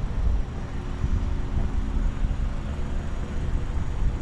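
Classic car running at low speed, a steady low rumble of engine and road noise.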